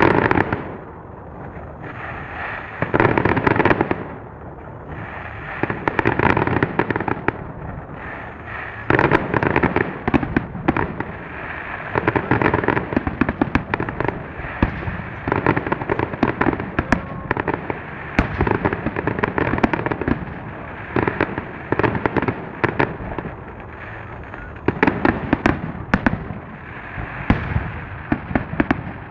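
Fireworks display going off in waves of rapid crackling bangs, dense salvos of sharp cracks every few seconds that run almost without a break through the middle.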